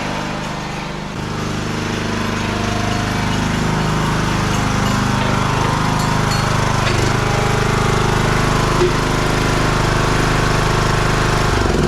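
Lawn tractor engine, a Craftsman mower engine swapped into a John Deere D120, running steadily, its pitch dipping briefly just before the end.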